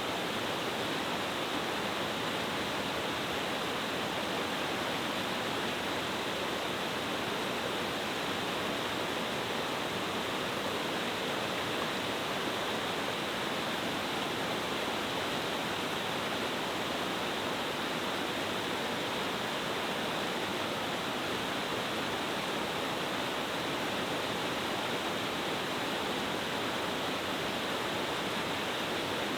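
Cascading mountain-stream waterfall falling in several tiers: a steady, unbroken rush of water.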